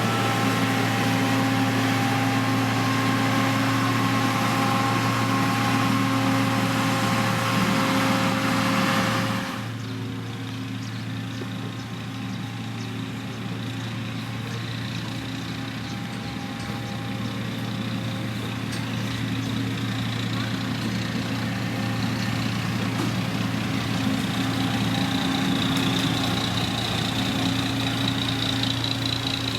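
Diesel engine of heavy road-construction machinery running steadily. About nine and a half seconds in, the sound drops abruptly to a quieter, duller run, then slowly grows louder again.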